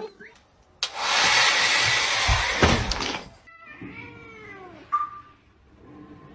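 A loud, even hiss lasting about two and a half seconds, then a cat meows once, its pitch rising and falling.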